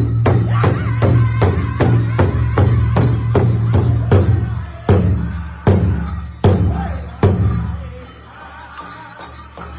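Powwow drum song: a big drum beaten steadily about three times a second with singers and jingles. About halfway through the beat gives way to four hard, spaced strikes, then the drum falls quiet and only fainter singing and jingling go on.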